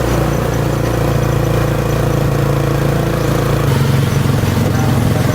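An engine running steadily and loudly, its low note shifting a little more than halfway through.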